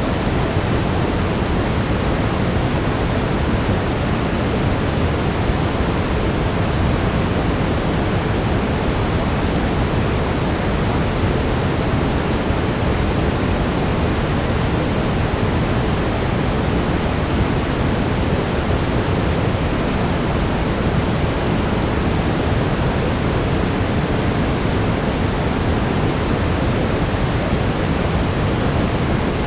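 Steady synthetic brown noise, a deep even hiss weighted toward the low end and unchanging throughout, with a faint steady tone underneath.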